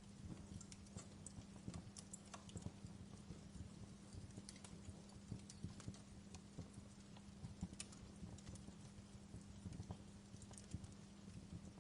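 Wood fire crackling faintly, with irregular pops and snaps over a low steady hum.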